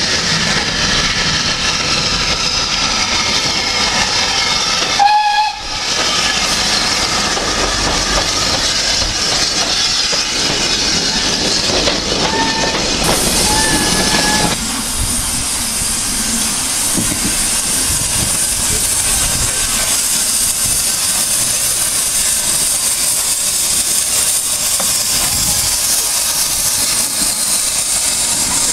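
Steam locomotive working, with a steady hiss of steam and rail noise, and two short whistle notes a little before halfway.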